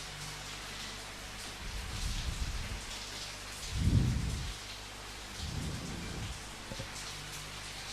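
Steady rain pattering, with several short low rumbles, the loudest about four seconds in.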